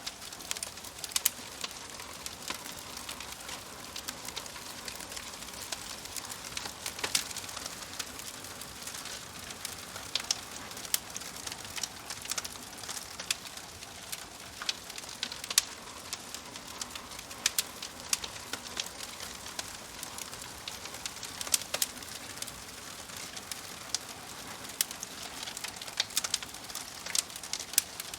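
Burning wood crackling: a steady soft hiss broken by frequent sharp, irregular pops and snaps.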